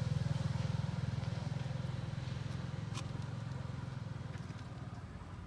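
A motor engine running with a low, pulsing hum that slowly fades away. There is a single sharp click about three seconds in.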